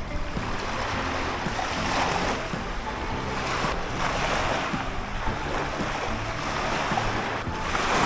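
Surf breaking on the shore, swelling every few seconds, with wind buffeting the microphone.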